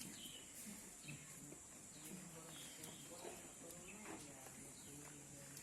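Faint birds chirping a few times over a quiet background.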